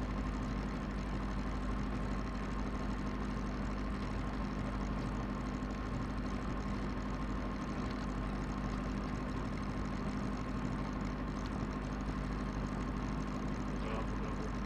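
Diesel Cessna 172's engine and propeller running at a steady speed, heard from inside the cockpit.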